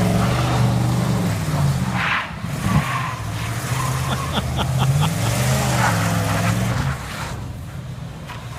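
GMC pickup truck's engine revving up and down several times while the truck slides in snow, with a steady hiss over it. A quick run of clicks comes about four seconds in.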